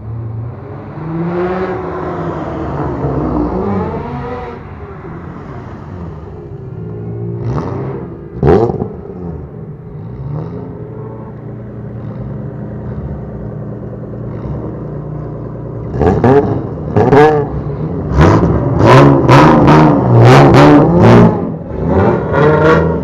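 Modified Japanese bosozoku car engine running and being revved, with a single sharp throttle blip about eight seconds in, then a quick series of loud throttle blips near the end.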